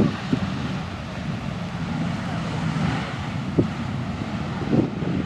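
Jet airliner engines running, a steady broad rumble that swells slightly in the middle, with wind buffeting the microphone.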